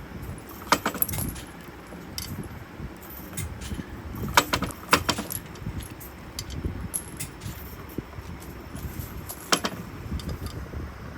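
Small metal pieces clinking against each other in a handful of sharp, ringing clicks, two or three at a time, over a low rumble.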